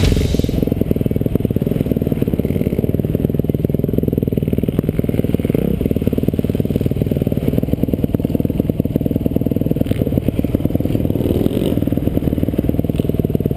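Motocross bike engine running under throttle, heard through the rider's onboard camera: a dense, muffled, low sound with little above the low range, plus some rattle from the bike.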